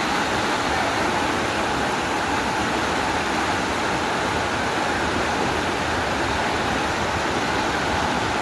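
Steady rushing of floodwater pouring across a road.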